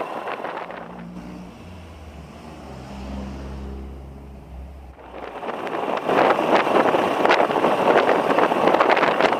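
Small Honda Cub motorcycle with a single-cylinder four-stroke engine. The riding and wind noise dies away as it slows, and the engine idles low and steady for a few seconds. About five seconds in, wind and engine noise build again as it pulls away.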